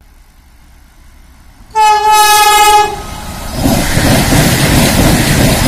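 Vande Bharat Express trainset sounding its horn once, a loud steady tone held for about a second. Then it passes close at speed: a loud, steady rush of wheels on rail and wind.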